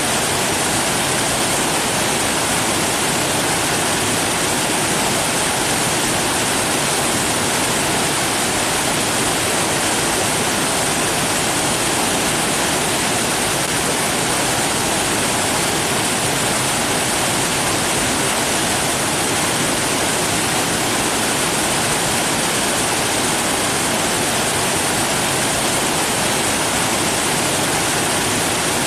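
Steady rushing water with an even, unchanging hiss, like a waterfall or fast stream.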